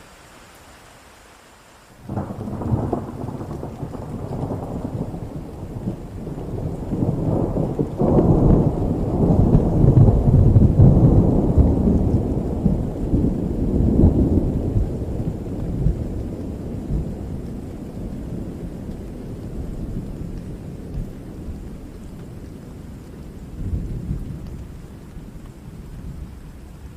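A long rolling peal of thunder over steady rain. It breaks suddenly about two seconds in, rumbles loudest through the middle, then slowly dies away near the end.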